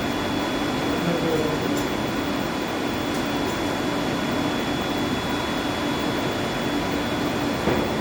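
Steady drone of boiler-house machinery: an even noise with a few steady hum tones running throughout, and a short knock near the end.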